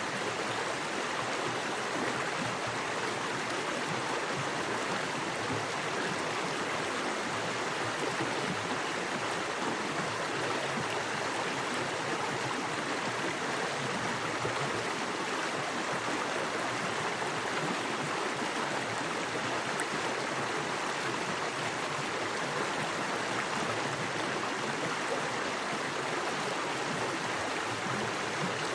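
Small woodland creek with fast water flowing over rocks: a steady, even rush of running water with no breaks.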